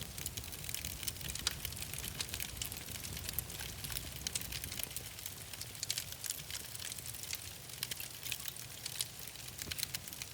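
Wood fire crackling in a fireplace, with irregular sharp pops and snaps over a low steady rumble of the flames.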